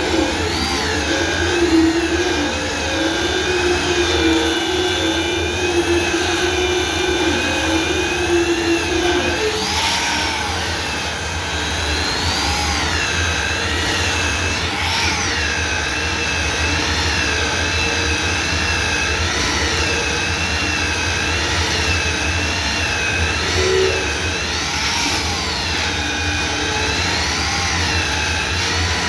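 A motor-driven machine running continuously, with a high whine that wavers up and down in pitch.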